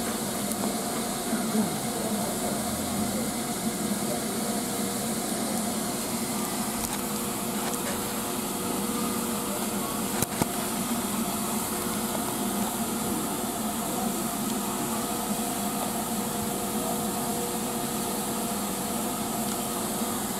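Steady mechanical hum and hiss of trains standing at a station platform, a steam locomotive in steam beside an idling diesel unit, with one brief click about ten seconds in.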